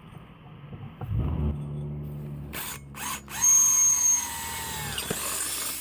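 Electric drill boring into steel: the motor runs up about a second in, and a louder, high screech that slowly falls in pitch comes as the bit cuts into the metal in the middle of the run.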